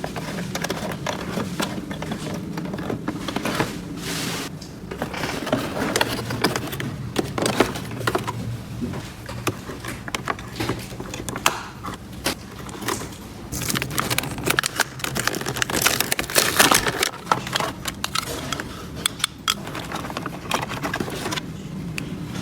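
Small plastic toy pieces being handled: irregular clicks, taps and scraping rustles, busiest about two thirds of the way in, over a faint steady hum.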